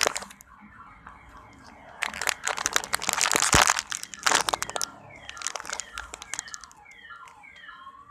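Crinkling and crackling of handled plastic wrapping, loudest in the middle, followed near the end by a run of short falling squeaks.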